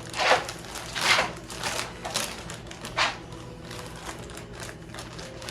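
Gift packaging rustling and crinkling as it is torn open by hand: several loud crackling bursts in the first three seconds, then quieter scattered crackles.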